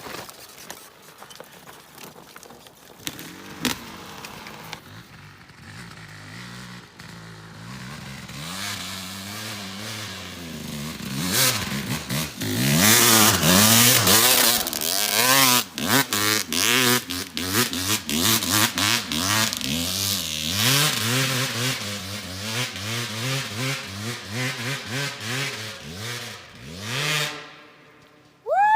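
Small dirt bike engine revving hard and repeatedly up and down while climbing a hill. It grows louder as it approaches, is loudest about halfway through, then fades as the bike rides away.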